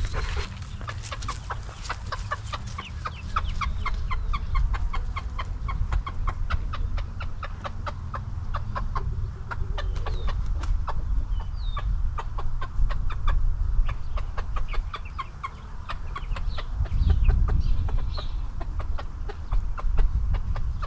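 Mother hen clucking in a quick run of short calls, several a second, with her chicks peeping now and then above it, over a low rumble.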